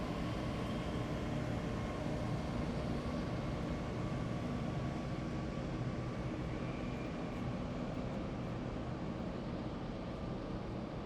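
Heavy military vehicles driving past in a column, a steady engine rumble with tyre and road noise that fades slightly near the end.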